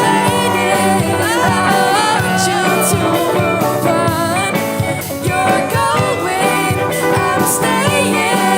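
A pop band playing live: a drum kit keeping the beat under bass and a melody line that slides up and down in pitch.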